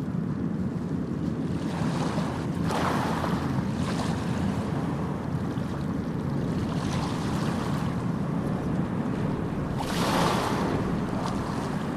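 Sea waves breaking and washing in over a steady low rumble of surf, with louder washes about two to three seconds in and again about ten seconds in.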